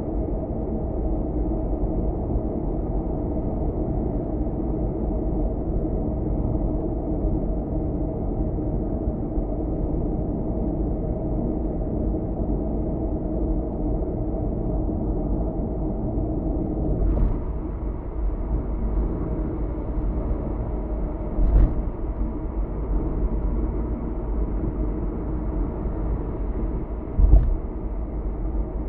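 Steady road and engine noise of a car cruising on an expressway, a low rumble, with a few short thumps partway through.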